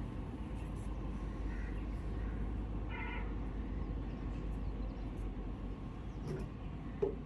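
A short, high-pitched call like an animal's, about three seconds in, over a steady low background hum, with a brief knock near the end.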